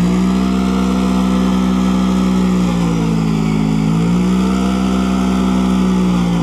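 Vehicle engine held at high revs, its pitch dipping briefly and climbing back twice.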